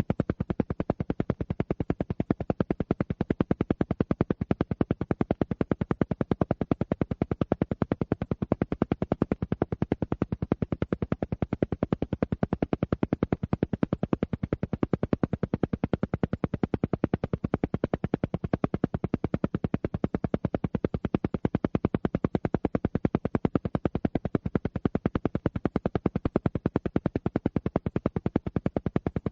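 Alpha-wave isochronic tone: a low tone switched on and off in rapid, evenly spaced pulses, held steady without change.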